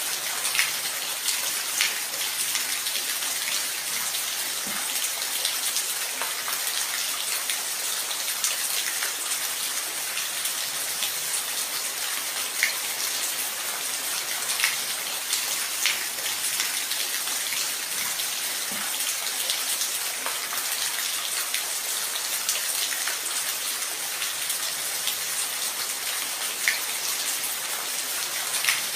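Steady rain falling, an even hiss with scattered louder drops striking a surface every second or two.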